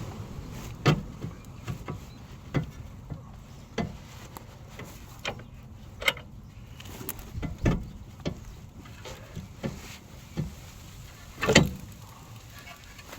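Irregular knocks and clinks of tools and car parts being handled during work on the car, a dozen or so separate hits with the loudest, heavier knock about eleven and a half seconds in.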